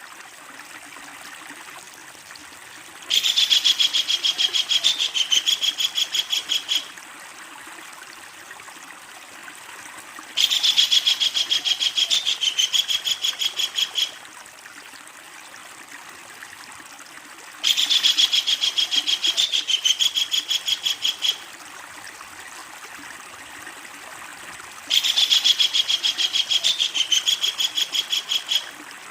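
Kingfisher calling: four bouts of a rapid, loud, chattering series of sharp high notes, each lasting about four seconds and coming roughly every seven seconds, over a steady background hiss.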